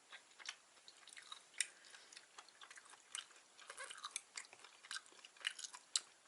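A person chewing food, heard as a string of small, uneven clicks.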